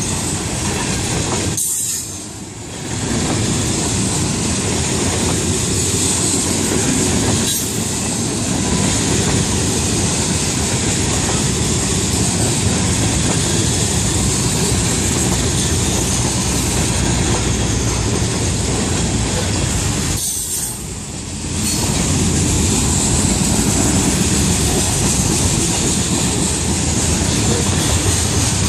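Freight train of covered hopper cars rolling past a grade crossing: a steady rumble and rattle of steel wheels on the rails, which drops briefly twice, about two seconds in and again about twenty seconds in.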